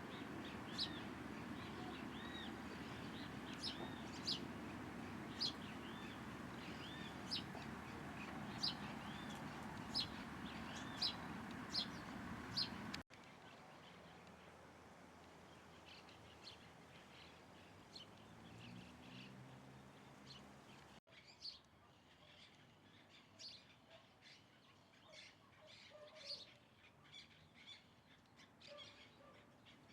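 Small birds chirping: short, high chirps and little arched notes repeating about once a second, over a steady low background noise. The sound cuts off abruptly about halfway through and again later, and the chirps go on fainter after the cuts.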